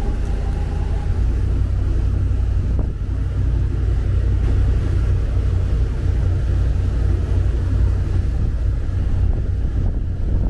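Cabin cruiser's inboard engines running under way, a steady low rumble, with wind buffeting the microphone.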